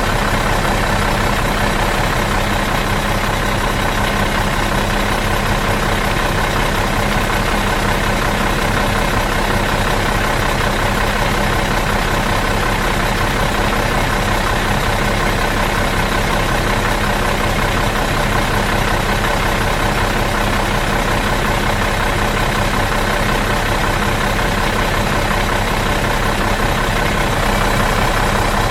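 Bus engine idling in neutral, a steady, even hum with no change in speed.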